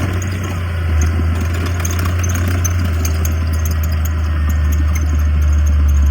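Heavy earthmoving machine's diesel engine running steadily with a deep drone, with faint ticks and rattles over it.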